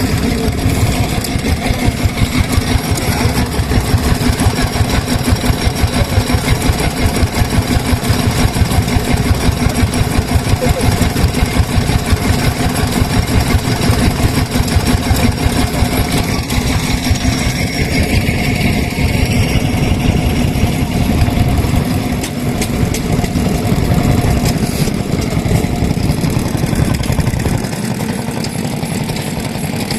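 Vintage stationary farm engines (Japanese kerosene engines) running, a steady rhythmic chugging.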